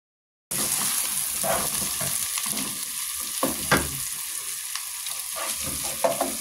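Food sizzling as it fries in hot oil in a pan, starting abruptly about half a second in, while it is stirred, with a few sharp knocks of the utensil against the pan.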